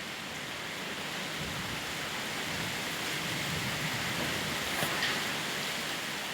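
Heavy wind blowing: a steady rushing noise with a low rumble that comes and goes.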